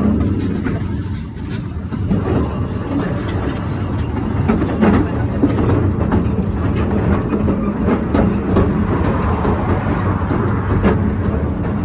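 Narrow-gauge steam train running downhill: a steady rumble of wheels and carriages, with irregular clicks and knocks from the wheels on the rails that come more often from about four seconds in.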